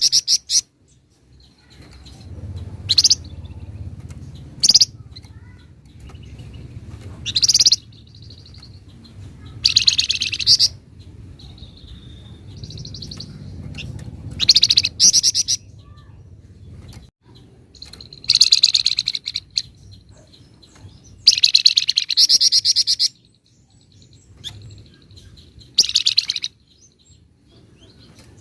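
A flamboyan songbird singing in short, loud bursts of rapid, dense chattering trills, about ten of them spaced a second or two apart, with thin softer notes in between. This is the fast 'ngebren' and 'nyecret' chatter that keepers prize.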